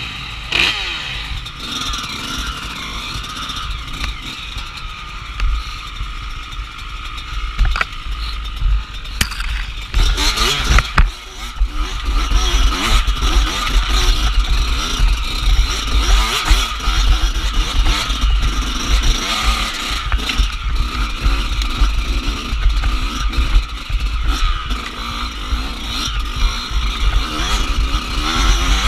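Dirt bike engine being ridden off-road, revving up and down with the throttle, over a heavy low rumble of wind on the microphone. A few sharp knocks around the middle.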